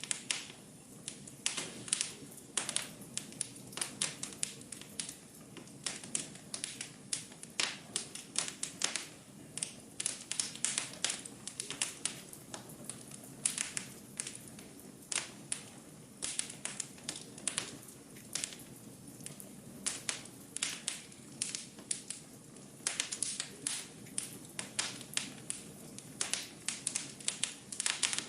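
Wood fire in a fireplace crackling: frequent irregular sharp pops and snaps over a low steady rush of burning.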